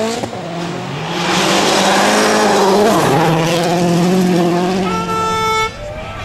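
Rally car engine at high revs, its pitch climbing and dropping repeatedly as it shifts through the gears, with a brief steadier stretch about five seconds in before it falls off.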